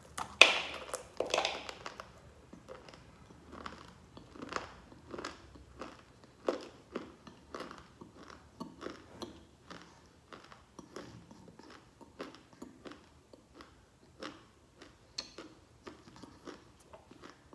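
A person biting into a dry lump of edible clay, two loud crunches just after the start, then chewing it with a steady run of crunches that grows fainter toward the end.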